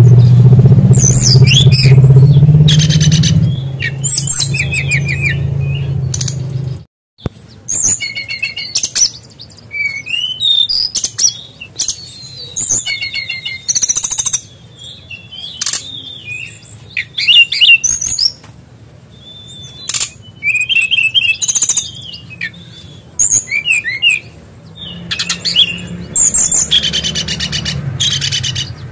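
Brown-chested jungle flycatcher (SRDC) singing a long run of quick, varied high chirps, trills and whistles, its song filled with learned kingfisher-like notes. A low hum runs under it for the first few seconds and again near the end.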